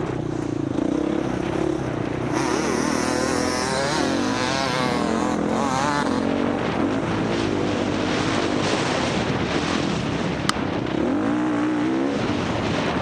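Dirt bike engine running hard in an off-road race, its pitch rising and falling as the throttle is worked on and off, with a sharp click about ten and a half seconds in.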